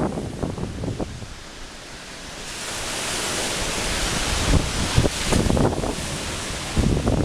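Waves on the Baltic Sea washing in, with gusts of wind buffeting the microphone. A wave's hiss swells up about two and a half seconds in.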